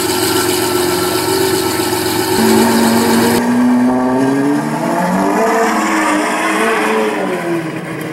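Ferrari 812's V12 engine running steadily, then rising in pitch as the car pulls away; after a cut, the engine revs up and down several times as it drives off.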